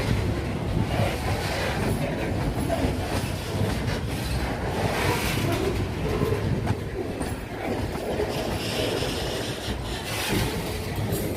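Freight train wagons rolling past at low speed, a steady rumble with wheels clacking over rail joints.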